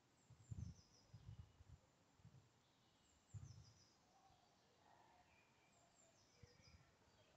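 Near silence with faint birdsong: a short run of high chirps stepping downward, heard three times about three seconds apart. Soft low thumps come in the first half.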